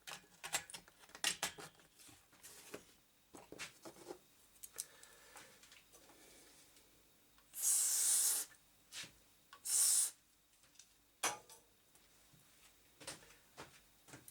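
Hands handling computer hardware on the bench: scattered small clicks, taps and rubbing as a card is fitted into the motherboard. Two short, loud hissing noises come about halfway through.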